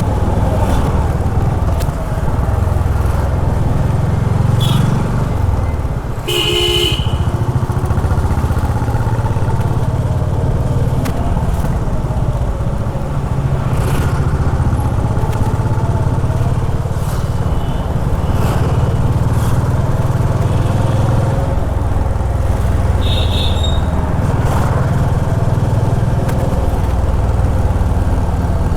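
Honda H'ness CB350's air-cooled single-cylinder engine running steadily while riding in city traffic, with vehicle horns honking briefly, loudest about six and a half seconds in and again about two thirds of the way through.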